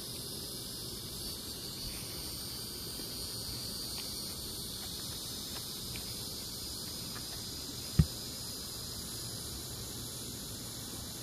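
Steady high-pitched chirring of insects in the evening air, with one short low thump about eight seconds in.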